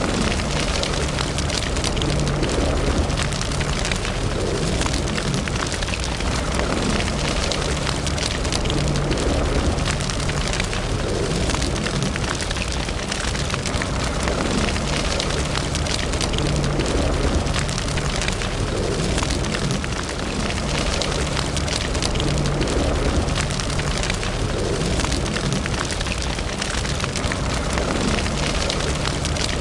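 Fire in a fireplace crackling steadily, with many small sharp pops over a low rumble.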